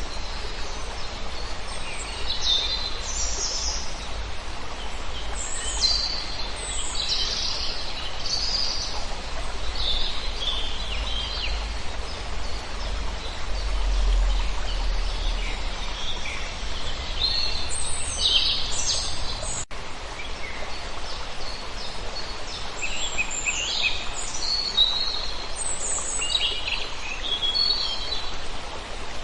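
A flock of many small birds chirping, short high calls overlapping and coming in clusters, over a steady background hiss.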